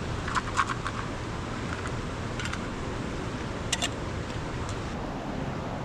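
A steady low rumbling noise with scattered sharp clicks and crackles: a short cluster about half a second in, and a couple more near four seconds.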